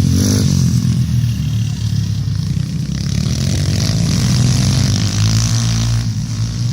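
Pit bike engines running hard as the bikes race round the track, their pitch wavering up and down with the throttle.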